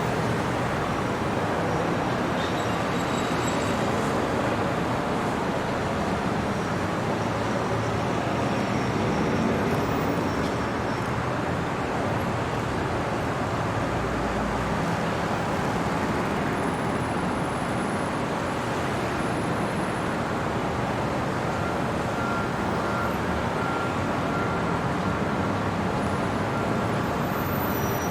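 Steady city traffic noise: a continuous wash of road vehicles with no single sound standing out.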